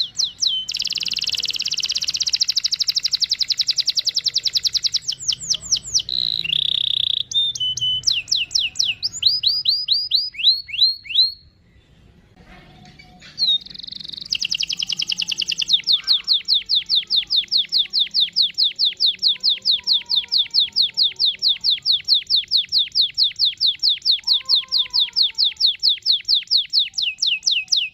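Domestic canary singing long rolling trills of fast repeated high notes. The song breaks off for about two seconds near the middle, then runs into one long, even trill.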